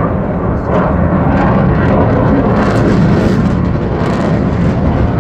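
Loud, rushing engine noise of a display aircraft flying past, with a rougher crackle coming through about three seconds in and again near the end.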